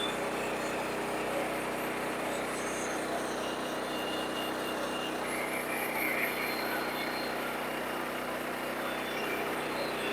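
Sawmill running steadily: a continuous engine hum under a noisy wash, with no change in level.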